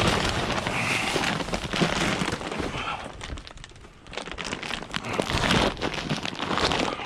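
Plastic bags and packaging rustling and crinkling as a dumpster's contents are rummaged through, with scattered knocks of handled items; it eases off briefly a little past the middle.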